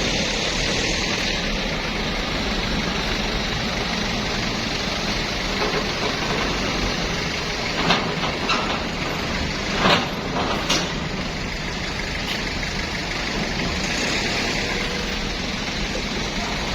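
Bus engine running steadily, with a few short knocks about eight and ten seconds in.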